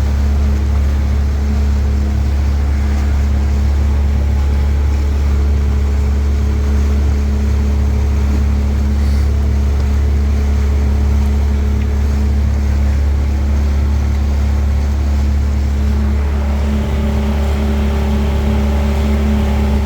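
Small fishing boat's motor, newly repaired, running steadily at low cruising speed: a loud, constant drone at one unchanging pitch.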